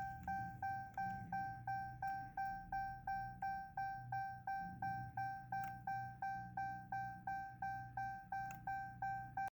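An electronic warning chime dings steadily on one pitch, about two to three dings a second, each fading quickly, then cuts off abruptly near the end.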